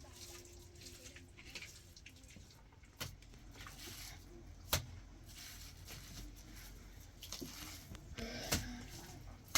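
Faint work or handling sounds: four sharp, isolated taps or knocks a few seconds apart over a low, steady background.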